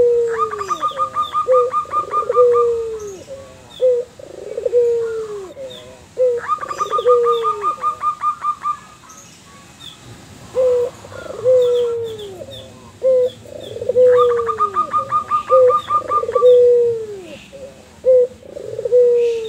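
A white ringneck dove and a zebra dove calling back and forth: repeated low, falling coos throughout, and three times a fast, higher trilled run of notes.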